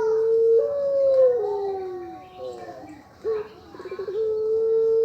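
Puter pelung dove cooing twice, in its long high-pitched 'ngelik panjang' style. Each coo opens with a quick stuttering run, holds a long steady note, then steps up and slides slowly down. The second coo starts about three seconds in.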